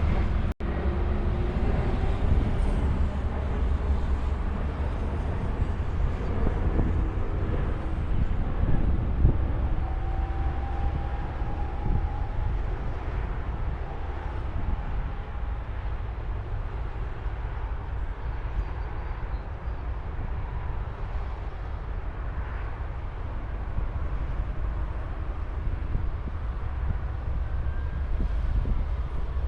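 Steady rumble of highway traffic, with trucks and cars passing, strongest in the low range.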